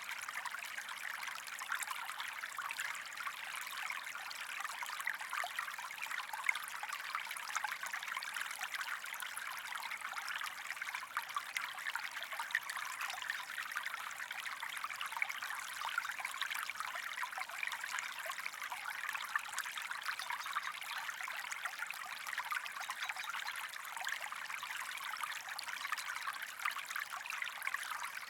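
A small stream trickling steadily, a dense, even run of small splashes with little low rumble.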